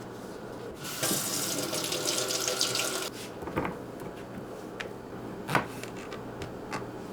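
Kitchen sink tap running for about two seconds, then shut off, followed by a few sharp knocks.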